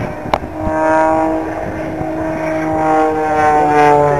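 The ORACLE Challenger aerobatic biplane's piston engine and propeller droning overhead, the pitch slowly rising and falling as it manoeuvres. There is a single sharp click about a third of a second in.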